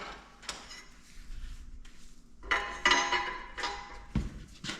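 Steel cylinder-liner puller clanking against metal as it is handled on a Detroit Diesel 4-53T block. There are several sharp knocks with a short metallic ring, the loudest run about two and a half to three and a half seconds in.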